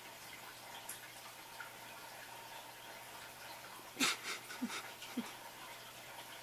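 Faint room tone, then about four seconds in a short knock followed by three brief, low animal calls, each rising in pitch.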